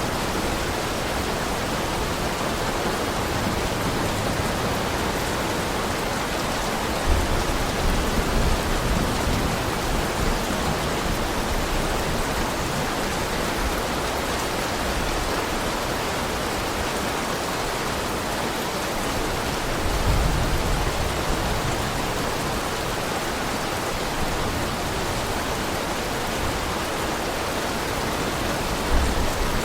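Heavy rain falling steadily as a dense, even hiss. Brief low rumbles swell up about a quarter of the way in, about two-thirds in, and again near the end.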